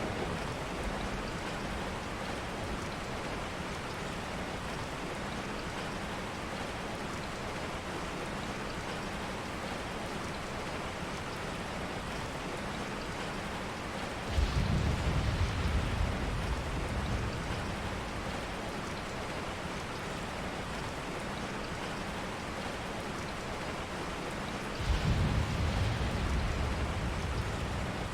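Steady rain, with two low rumbles of thunder about halfway through and near the end, each lasting a couple of seconds.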